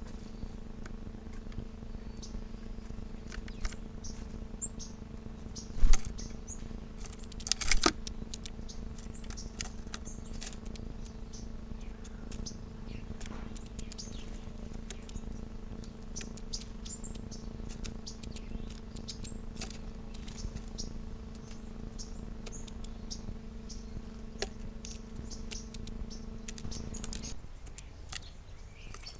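Small backyard birds chirping in short, sharp calls scattered throughout, over a steady low machine hum that cuts off a couple of seconds before the end. Two louder knocks stand out, about six and eight seconds in.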